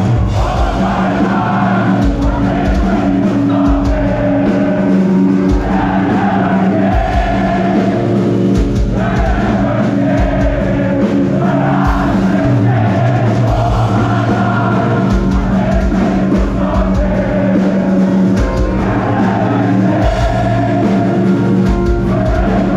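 Metalcore band playing live at full volume, with distorted guitars, bass, pounding drums and singing over the top.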